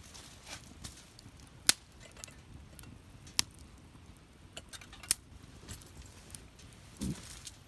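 Wood fire in a fire pit crackling, with scattered sharp pops over a faint hiss. A duller thud comes near the end.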